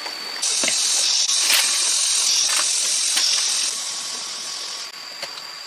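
A loud, high hiss that starts suddenly about half a second in and fades out after about four seconds, with a few sharp clicks, over a steady high whine.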